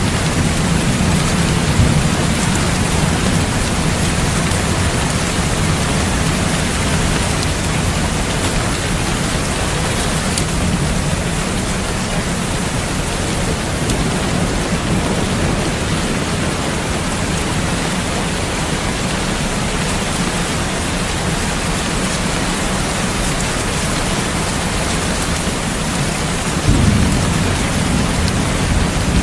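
Steady heavy rain with low rolling thunder. The rumble fades after the first several seconds and a new roll starts near the end.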